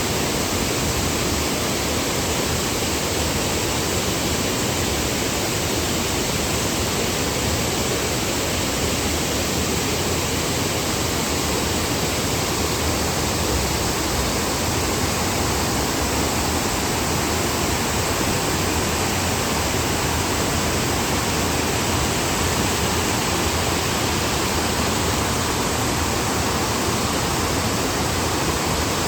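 Steady rush of flowing river water, the Grand River running through its limestone gorge, an even unbroken noise.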